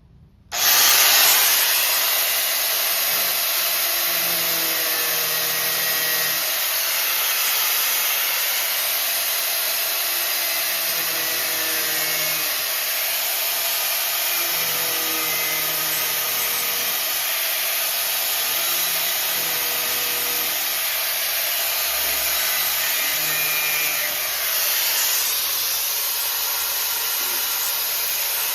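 Angle grinder with a cut-off wheel cutting through a car's sheet-steel floor pan. It starts abruptly about half a second in and runs as a steady, loud grinding hiss with no break.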